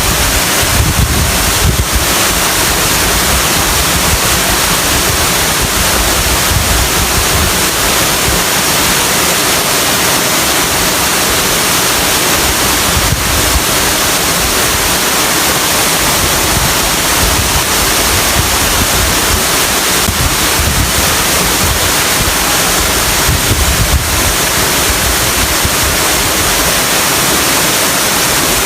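Waterfall rushing loudly and steadily, with wind buffeting the microphone now and then as low rumbles.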